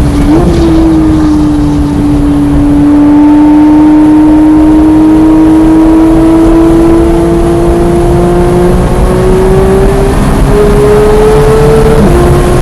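Porsche 991.1 GT3's naturally aspirated flat-six pulling hard on track, its pitch climbing slowly and steadily for about ten seconds. The note breaks briefly near ten seconds, then drops just before the end as the gearbox shifts.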